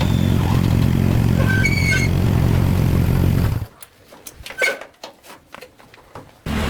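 Motorbike engine running steadily while riding. It cuts off suddenly about three and a half seconds in, leaving a quiet stretch with scattered clicks, and returns near the end. A few short high chirps sound in the first two seconds.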